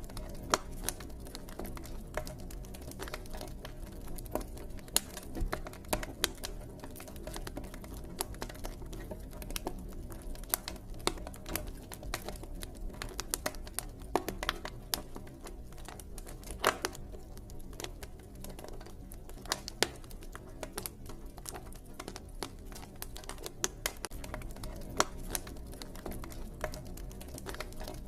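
Campfire crackling: irregular sharp pops and snaps, several a second, over a low steady rumble of burning wood.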